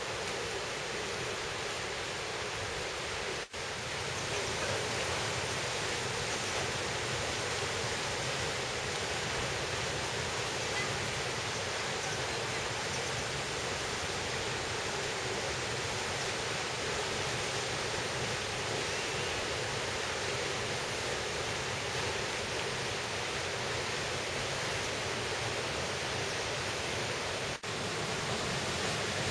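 Steady rushing of a mountain stream or waterfall, a dense even roar of water. It is broken by two momentary dropouts, a few seconds in and near the end.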